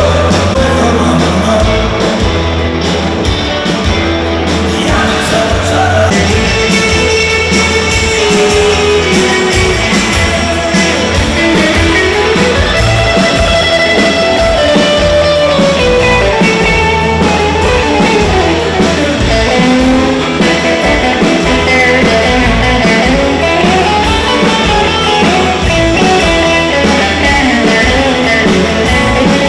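Loud rock and roll band music: electric guitar, a steady bass beat and a singing voice.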